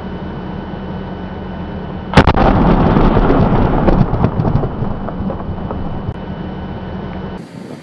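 A large explosion: one sharp blast about two seconds in, followed by a rumble full of small cracks and pops that slowly fades over several seconds.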